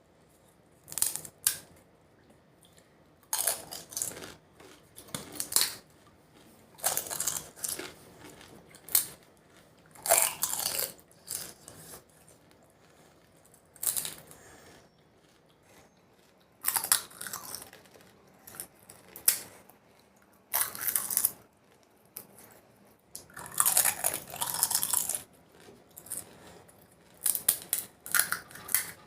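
Close-miked eating of fuchka (pani puri): crisp hollow shells biting and crunching, then chewing, in repeated bouts with short pauses between.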